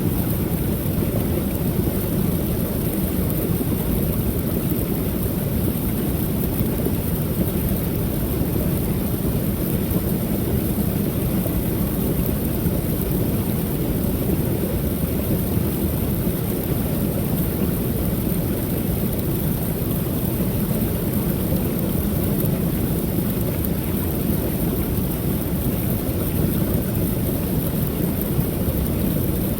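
Creek waterfall: water pouring over the falls in a steady, deep rush that does not change.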